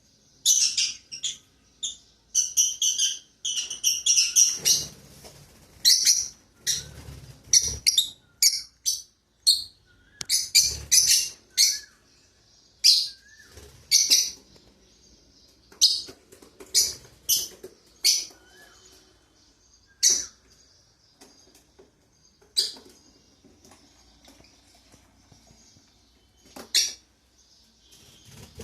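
Pet lovebirds chirping: many short, high-pitched chirps in irregular clusters with gaps between them, and a few low thuds mixed in during the first half.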